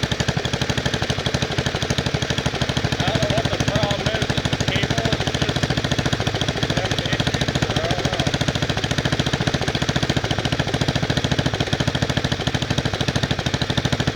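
Wisconsin S8D air-cooled single-cylinder engine on a Bolens 850 garden tractor running steadily, its exhaust a rapid, even string of pulses that holds a constant speed.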